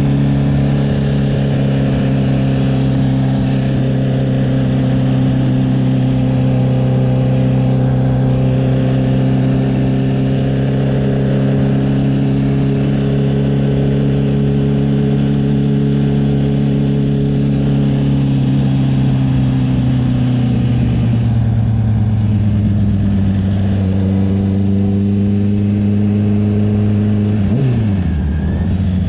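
Honda CB650R's inline-four engine through an aftermarket CS Racing exhaust, running at steady revs under way. The pitch eases down a little past the middle, then drops sharply near the end as the revs fall off.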